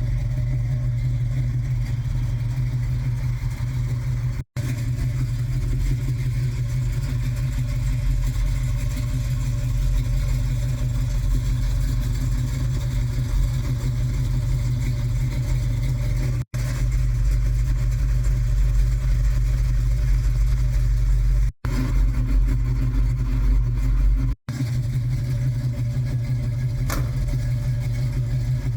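A 1967 Chevrolet El Camino's engine idling steadily, broken by four brief dropouts.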